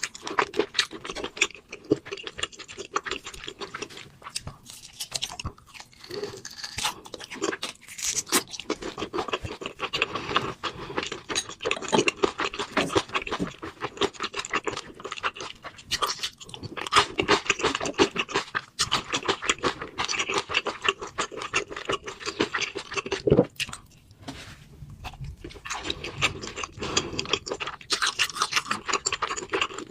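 Close-up eating sounds: a continuous run of chewing, crunching and smacking, dense with short wet clicks, pausing briefly a few times.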